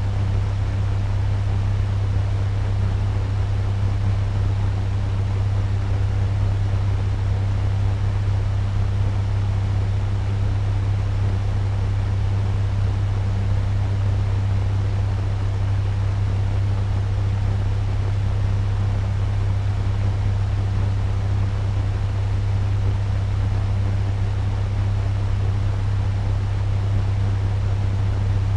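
Turbo fan running steadily at medium speed: an even rush of air over a strong, constant low motor hum.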